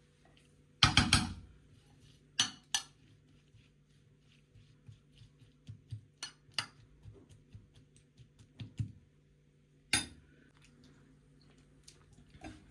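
Dishes and cutlery clattering and clinking: a burst of clatter about a second in, two knocks soon after, scattered light taps, and one sharp clink near the end.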